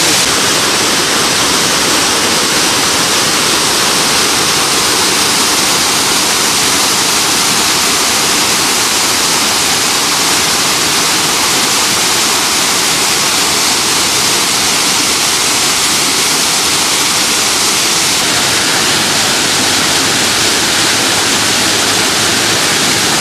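Bogatha waterfall's water falling and splashing, a loud, steady rush that does not let up.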